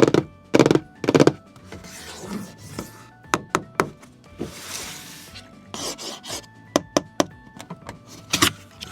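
Handling noise of a diecast model truck over background music: a run of sharp clicks and knocks, loudest near the start and near the end, with a short scraping rub about halfway through.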